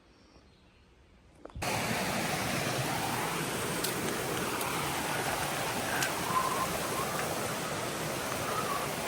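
Steady rush of falling water, like a waterfall, that starts abruptly about a second and a half in after a faint, quiet start.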